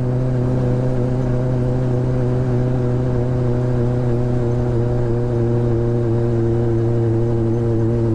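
Motorcycle engine running at a steady, unchanging speed while riding, with low wind rumble on the microphone.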